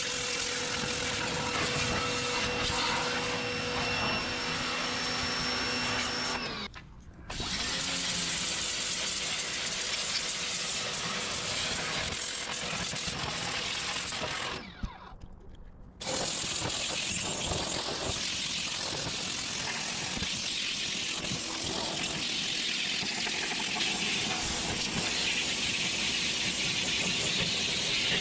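Pressure washer spraying water, a steady loud hiss of the jet over the hum of the washer's motor. The spray cuts out twice briefly, near the middle of the first quarter and again about halfway through.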